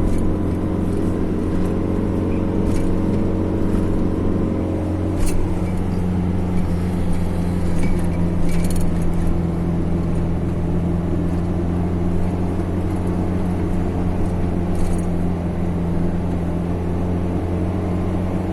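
Car driving along a road: a steady engine hum with road noise. The pitch shifts slightly about five seconds in, and there are a couple of short clicks.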